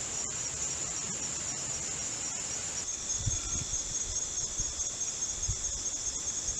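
Insect chorus in a meadow: a steady, high, finely pulsing trill throughout, joined about three seconds in by a second steady, lower-pitched buzz. A few soft low thumps come in the second half.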